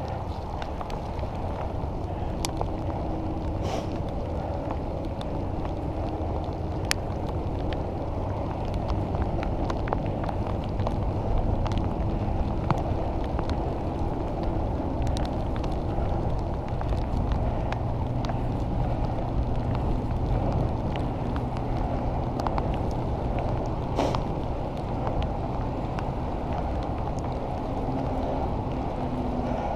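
Steady rumble of a bicycle ride in the rain: wet road noise from the tyres and wind on the microphone, with scattered small clicks and ticks.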